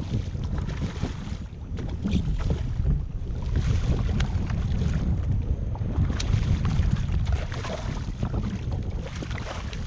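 Wind buffeting the microphone, a gusting low rumble, with scattered small clicks and knocks.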